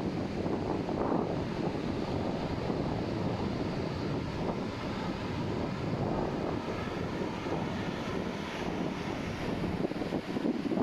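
Ocean surf washing onto the beach, heard as a steady rushing noise that swells and eases, with wind buffeting the microphone.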